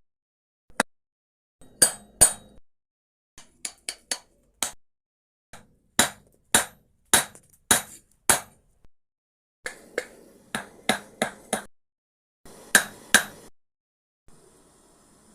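Hammer blows on metal: a string of sharp, irregular clinking strikes, some in quick pairs, each with a short metallic ring. A faint steady hiss follows near the end.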